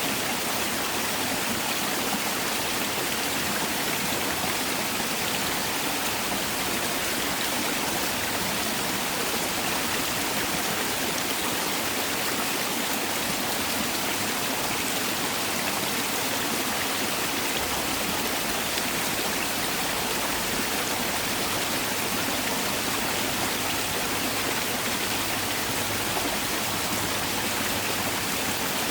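Mountain valley stream rushing steadily over rocks, an even, unbroken wash of flowing water.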